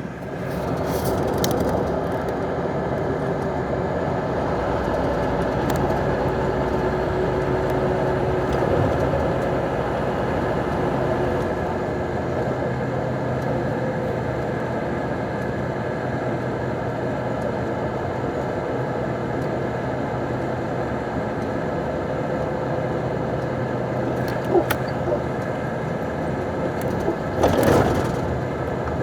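Scania truck running with a steady engine drone and road noise, and a few short knocks or rattles near the end.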